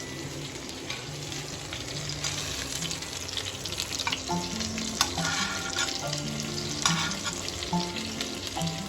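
Stuffed pointed gourds (potol) sizzling as they fry in hot oil in a pan, with a few sharp clicks of a utensil against the pan as they are stirred and turned.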